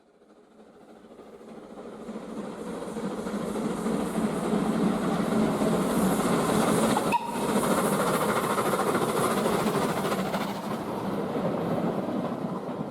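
A train running on rails: a steady rumble and clatter that builds up gradually, holds with a brief break about halfway through, then starts to fade near the end.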